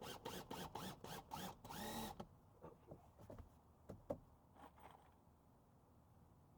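Faint sounds of driving screws into shed siding: a quick run of rasping strokes, about four a second, a brief whir that rises and falls, then a few scattered light knocks.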